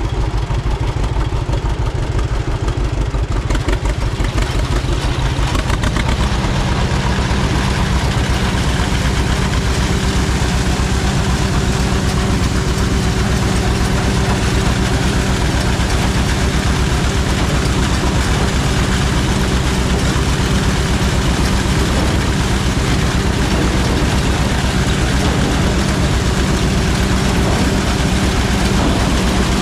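Tractor engine running steadily, its note stepping up about six seconds in and then holding steady.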